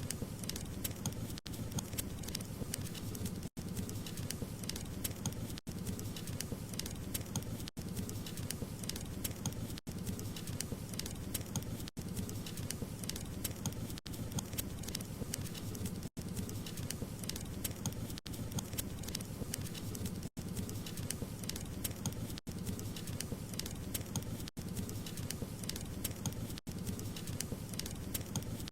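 Wood fire crackling, with many small pops and snaps over a low rumble of burning. The sound briefly cuts out about every two seconds.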